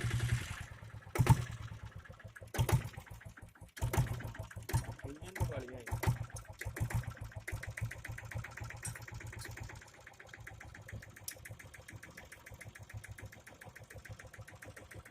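Single-cylinder diesel engine of a 1999 Royal Enfield Bullet idling with a fast, even clatter of firing strokes and a few louder knocks early on. Its tappets have just been set, and the owner calls the sound very good. It becomes quieter after about ten seconds.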